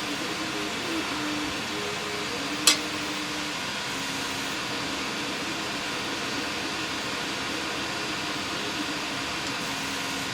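Steady fan-like hiss of the workshop, with one sharp click about two and a half seconds in as parts of an antique cash register are handled during disassembly.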